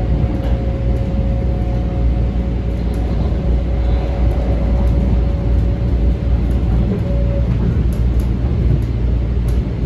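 Metro-North M7 electric railcar running, heard from inside the car: a steady low rumble of the wheels on the track, with a steady high whine that stops about seven and a half seconds in.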